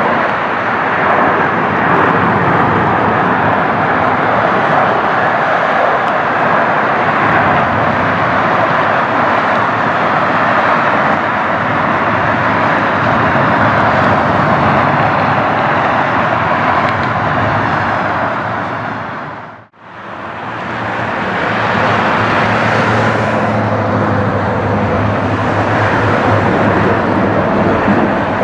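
Jet airliner engines running loud and steady. About twenty seconds in the sound dips sharply and fades back up as another jet's engines, with a low steady hum underneath.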